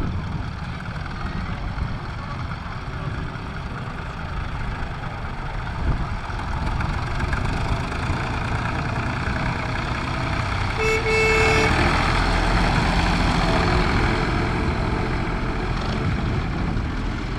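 Tractor engines running, with a short horn toot about eleven seconds in; the engine noise grows a little louder just after it.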